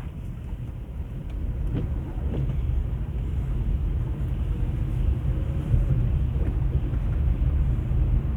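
Low, steady road rumble of a car's engine and tyres, heard from inside the moving car, growing louder over the first few seconds.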